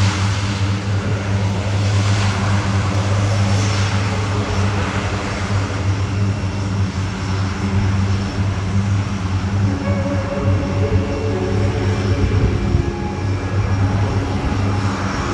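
C-130J Hercules' four turboprop engines running steadily, with a deep, even propeller drone and a broad engine rush over it.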